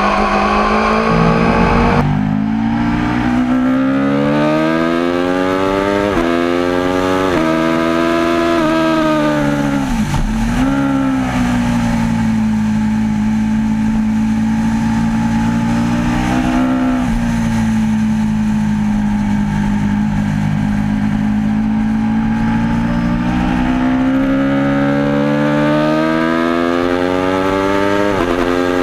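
Aprilia RSV4 APRC's V4 engine accelerating hard through several gears: the pitch climbs and snaps back down at each quick upshift. About ten seconds in the revs fall away as the bike slows. It then runs at a steady pitch under light throttle before climbing again near the end.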